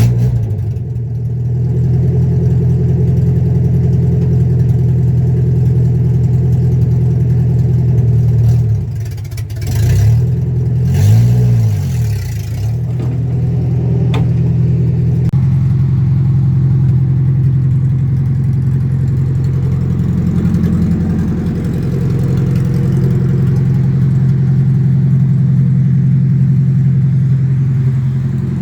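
Car engine running at a steady drone while driving, with one rev that rises and falls in pitch about ten seconds in.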